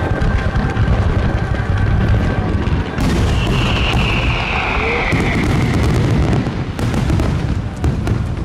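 Aerial firework shells bursting in a dense barrage, low booms rumbling on without a break. From about three seconds in, rapid crackling joins, along with a high whistling tone that slides slowly downward for a couple of seconds.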